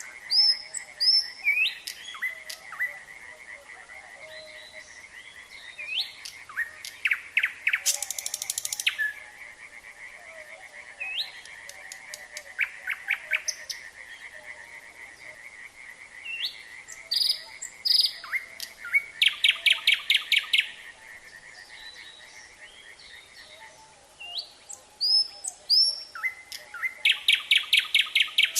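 Nightingale singing in separate phrases of rising whistles and bursts of fast repeated notes, with short pauses between. Underneath runs a steady chorus of calling frogs.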